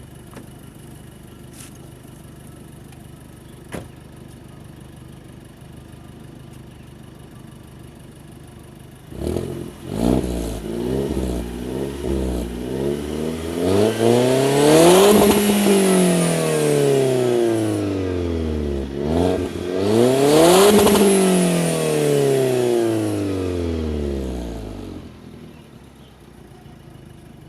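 Alfa Romeo Giulietta Quadrifoglio Verde's 1750 TBI turbocharged four-cylinder idling through a CSC aftermarket exhaust. About nine seconds in it is revved: the pitch climbs to a peak and falls back, twice over, then drops back to idle near the end.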